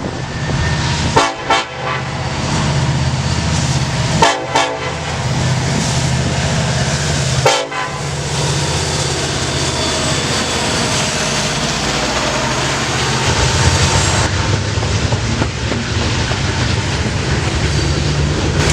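Norfolk Southern SD70ACe diesel locomotive leading a freight train. It gives three short horn blasts a few seconds apart, over the steady drone of its engine as the train passes.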